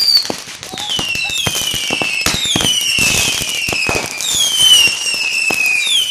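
Several whistling fireworks going off together, each shrill whistle falling in pitch as it burns, over a steady run of sharp pops and crackles.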